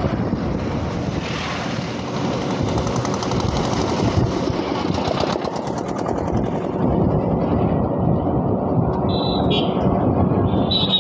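Motor vehicle engine running steadily, with a fast, even ticking rhythm that comes up from about two and a half seconds in and fades by about six seconds. Short high-pitched tones sound twice near the end.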